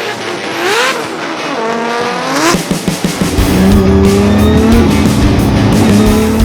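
Nissan Skyline R32's billet RB28 straight-six revving hard in two quick rising sweeps. From about three seconds in it is held at steady high revs, with tyre squeal, as the car drifts.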